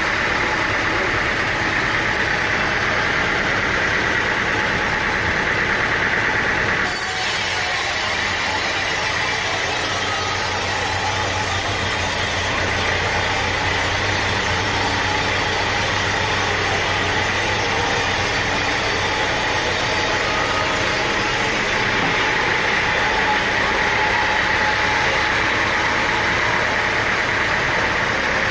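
Sawmill engine running steadily. Its sound shifts about seven seconds in and changes back a little after twenty seconds.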